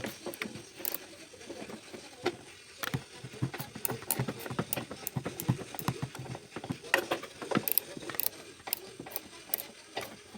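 Hand tools working on a car's front suspension: a run of irregular metallic clicks and clinks, like a ratchet wrench and tools on metal.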